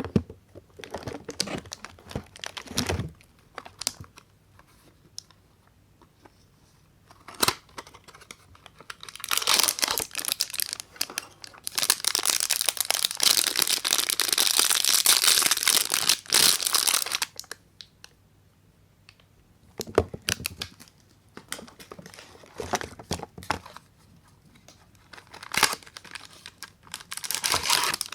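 Soap wrappers crinkling and tearing as bars of soap are unwrapped by hand. There are short rustles and clicks, with a long stretch of steady crinkling in the middle.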